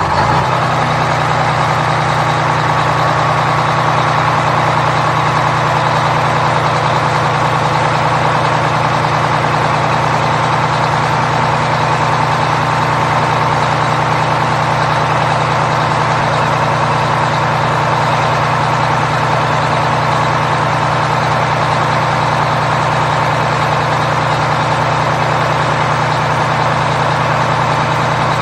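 Heavy truck engine idling steadily, an even, unchanging drone.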